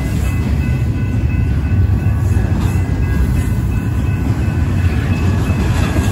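BNSF freight train rolling past, a steady low rumble of steel wheels on rail with faint clicks, more of them near the end.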